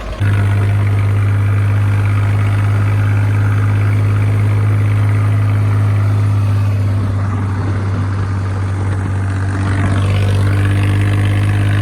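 Tractor engine running loud and steady, a deep even drone.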